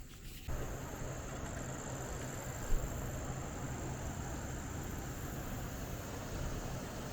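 Steady rushing wind noise on the microphone of a moving bicycle, starting suddenly about half a second in, with a steady high insect buzz behind it and a single knock a little under three seconds in.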